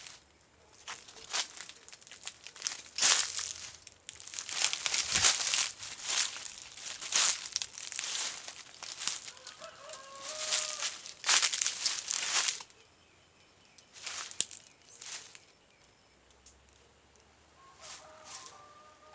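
Bursts of rustling and wing-flapping from a fowl such as a chicken, with a few short clucking calls about ten seconds in and again near the end.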